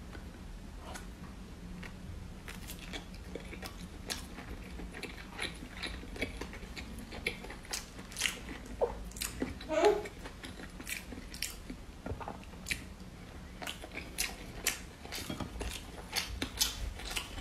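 Close-up chewing and biting of soft rice sausage: irregular soft clicks and moist mouth sounds, now sparse, now quicker, with a short hummed "mm" about ten seconds in.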